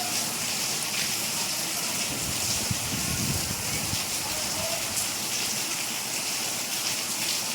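Steady rain falling: a dense, even hiss with scattered drop ticks. A low rumble swells briefly about three seconds in.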